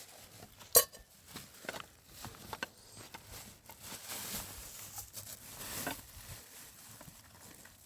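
Scattered light knocks and clicks of things being handled, with a faint steady hiss and one sharper knock about a second in.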